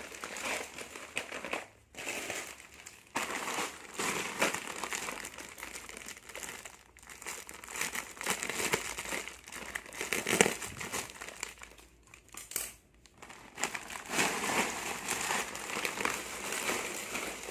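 Plastic snack packaging crinkling as packets are handled and shuffled, in irregular bursts with a few short pauses.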